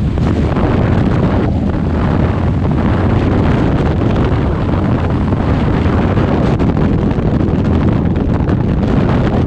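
Rushing wind buffeting the microphone, steady and loud throughout.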